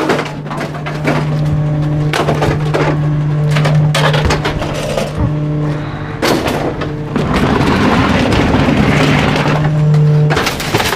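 Garbage truck's packer blade crushing bulky waste: wood cracking and splintering in many sharp snaps over the steady hum of the truck's hydraulics, turning to a denser grinding crunch about halfway through. The hum cuts off near the end.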